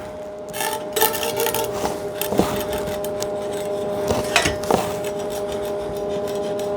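Scattered clicks and knocks from metal tubing and tools being handled, over a steady electrical hum.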